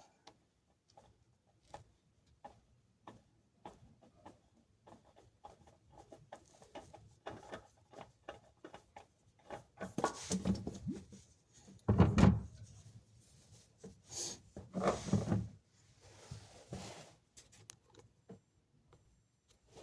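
Oil filter being unscrewed and removed by hand: scattered light clicks and scrapes, then several louder knocks and clunks, the loudest about twelve seconds in.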